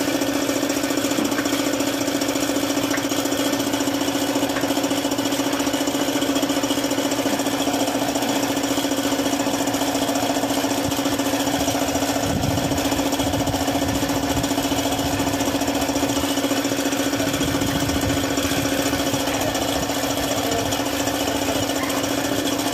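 An engine running steadily at constant speed, with an even, unchanging hum.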